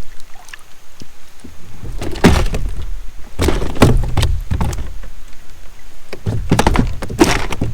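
Repeated knocks and thumps of handling on a plastic kayak, in irregular clusters, with low rumbling between them.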